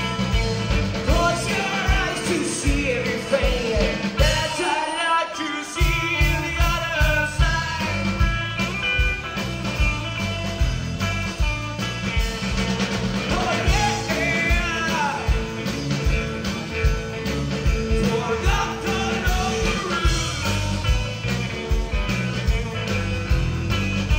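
Live rock trio playing an original song: drums and bass pounding under guitar and vocal lines. The drums and bass drop out for about a second around five seconds in, then come back in.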